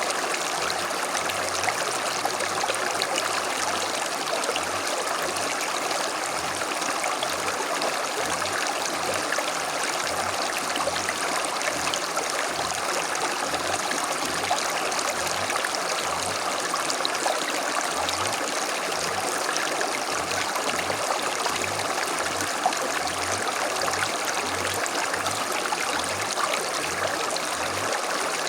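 A small stream (arroyo) running over stones: a steady, even babble and trickle of flowing water.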